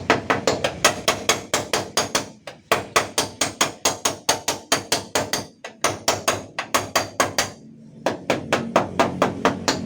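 Rapid, even hammer taps, about five a second, on the sheet metal of a van's dented rear door, beating the dent back out in ketok-magic panel repair. The tapping stops briefly three times before going on.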